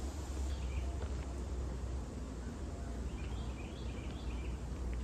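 A bird chirping in the woods: a brief call about half a second in, then a quick run of chirps about three seconds in, over a steady low rumble.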